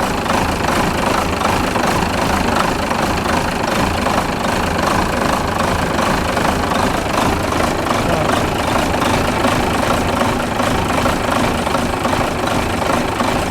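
Renault Major truck's MIDR diesel engine idling steadily with the cab tilted up and the engine open. It runs evenly after an injector repair.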